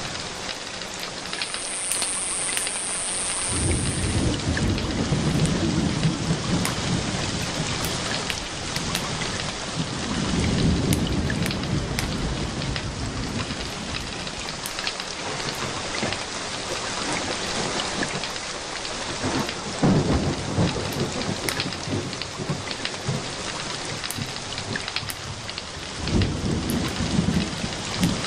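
Steady rain with thunder rolling in about four times as low rumbles that swell and fade.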